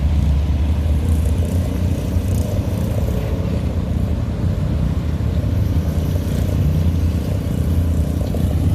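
Car engine running with a steady, deep low rumble as a vehicle leaves the show.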